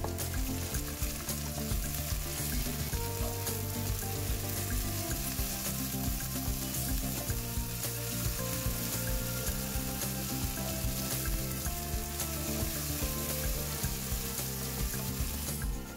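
Sliced chillies and lime leaves stir-frying in hot oil in a wok, with steady sizzling and the scrape of a wooden spatula stirring them.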